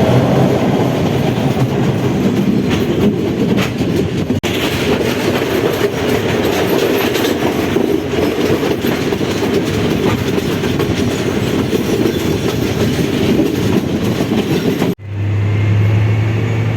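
Train running along the track: a steady rumble with clickety-clack of the wheels over the rail joints. Near the end it cuts abruptly to a steady low drone.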